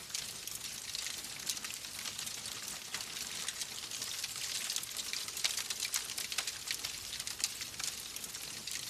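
Wood fire crackling in a fireplace: a steady soft hiss with many small, irregular pops and snaps.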